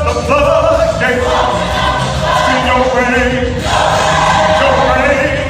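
Gospel choir singing with musical accompaniment, voices held and bending through sustained sung lines.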